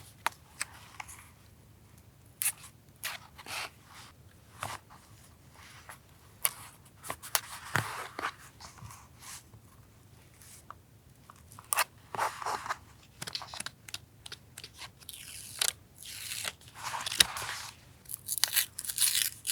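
Paper being handled for collage journaling: irregular crinkling and rustling with short sharp clicks, and a few longer rustling bursts about twelve and sixteen seconds in.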